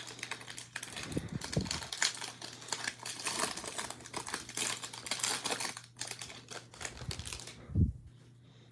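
Crinkling of a trading-card pack's wrapper with quick clicks of cards being handled, ending in a short low thump a little before the end.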